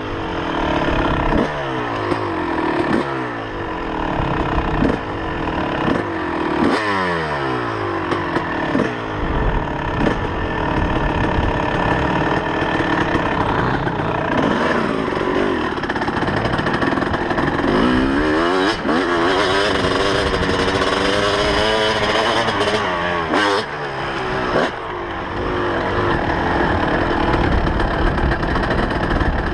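2004 Kawasaki KX250 two-stroke single-cylinder motocross engine being ridden hard, revs climbing and dropping again every second or two through the first ten seconds, then held longer with a few slower rises. Short clattering knocks from the bike run through it.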